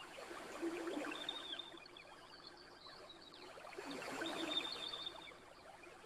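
Gentle ocean waves washing onto a beach, two swells rising and falling, under the steady crackle of a campfire. A faint high trill runs over the top.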